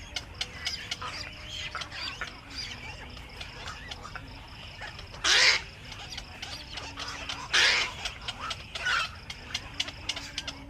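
Black-crowned night herons at the nest giving two loud, harsh squawks, about five and seven and a half seconds in, and a weaker one shortly after, over a steady chatter of short bird calls and clicks.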